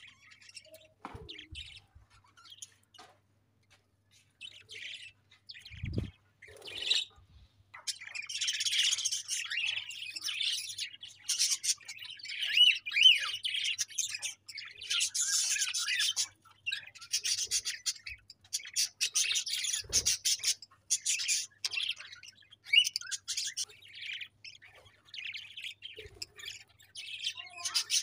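A group of budgerigars chirping and chattering, sparse at first, then busy warbling chatter from about eight seconds in, coming and going in stretches of a few seconds.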